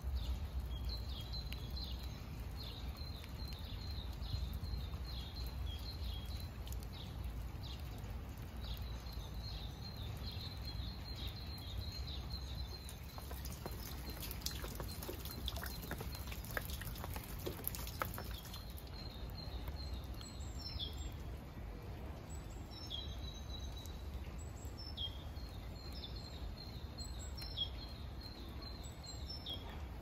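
A small songbird singing repeated phrases of quick high notes; from about two-thirds of the way in, each phrase opens with a downward slur. Under it runs a steady low rumble of outdoor background noise, and about halfway through there is a scatter of sharp ticks.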